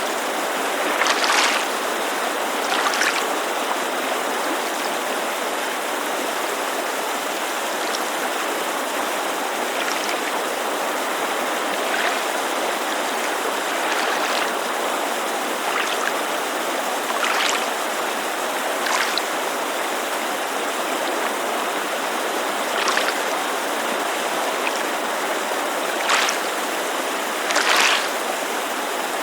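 Steady rushing noise of a creek with small waves lapping against a lakeshore over it, the laps showing as brief irregular splashes every few seconds.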